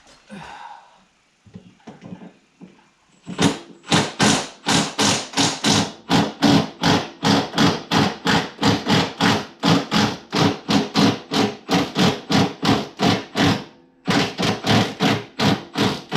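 Impact wrench hammering in short, evenly spaced pulses, about three a second, backing out the spindle housing bolts on a mower deck. There is a brief pause near the end before the pulsing resumes.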